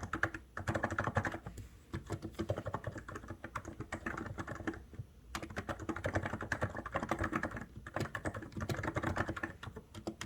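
COX Endeavour mechanical keyboard being typed on quickly, in runs of rapid keystrokes broken by brief pauses, the longest about five seconds in.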